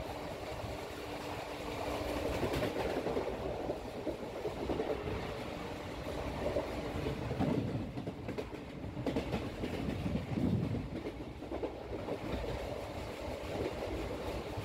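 A train running on the line, a steady rolling noise that swells and eases.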